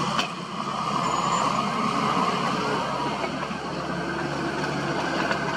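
Heavy-machinery engine running steadily with a whine, at work, with a single sharp knock just after the start.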